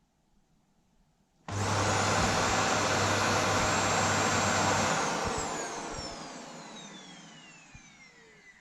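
Vacuum cleaner switched on about a second and a half in, running steadily for a few seconds, then switched off, its motor whine falling in pitch as it winds down.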